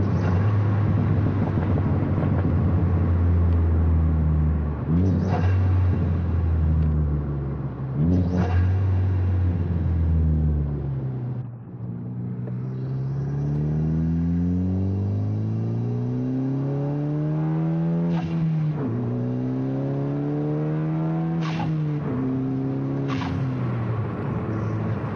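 Turbocharged Ford Focus ST engine with a catless downpipe and track exhaust, accelerating hard through the gears: the engine note climbs in long sweeps and drops back at each upshift. Each shift brings a short sharp noise.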